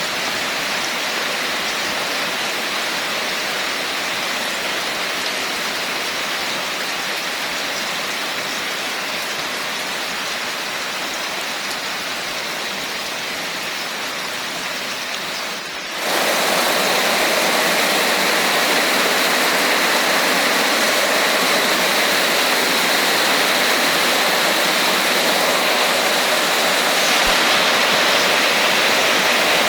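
Steady rain falling, an even hiss of water. About halfway through it cuts abruptly to a louder, brighter rush, as of heavier rain.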